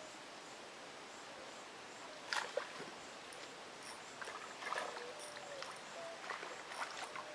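Steady rush of river water, with a few sharp clicks and knocks and some short, flat whistle-like tones in the second half.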